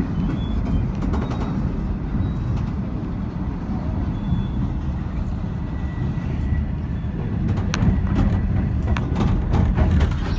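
Steady low rumble of a V/Line H set passenger carriage running on the rails, heard from inside, with a few sharp clicks and knocks near the end.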